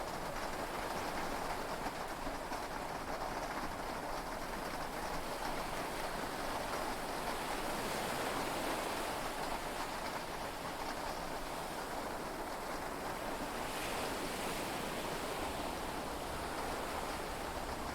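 Steady wash of heavy rain and sea waves heard from inside a yacht cabin during a storm at sea: an even hiss with no separate drops or crashes standing out.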